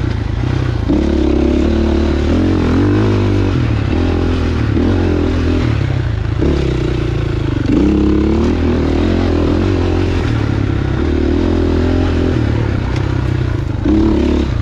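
Dirt bike engine running under load on a trail ride, its pitch rising and falling with the throttle, with one clear rev up about eight seconds in.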